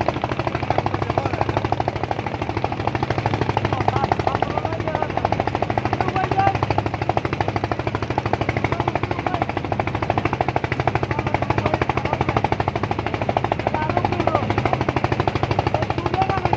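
An engine running steadily with a fast, even chugging rhythm.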